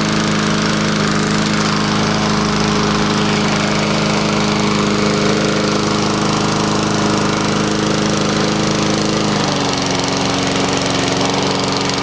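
Murray push mower's Briggs & Stratton 3.5 hp Classic four-stroke engine running steadily just after a cold start on the first pull. Its pitch drops a little about nine and a half seconds in as it settles.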